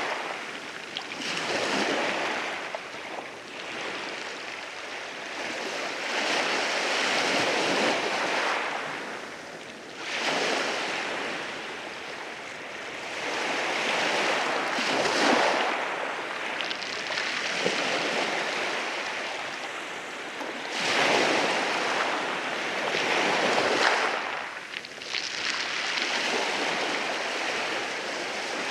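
Sea waves breaking and washing in over rocks on a beach, a swell of surf every few seconds rising and falling away, with some wind on the microphone.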